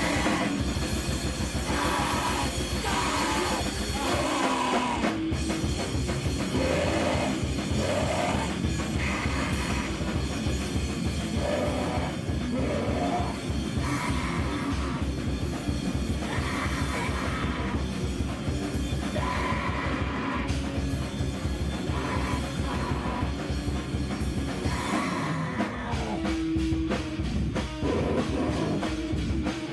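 Live band playing loud heavy rock: a drum kit beating fast and steadily under guitar.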